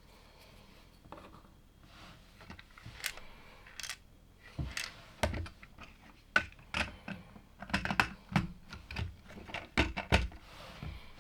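LEGO plastic bricks being handled and pressed together: a run of small clicks and taps, sparse at first and coming thick and fast in the second half.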